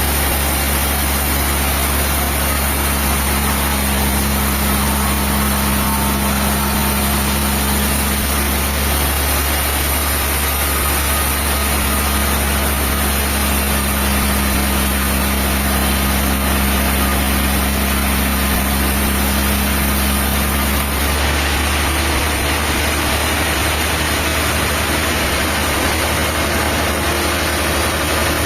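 A machinery engine running steadily at a constant speed, with no change in load. Its sound shifts abruptly about three quarters of the way through.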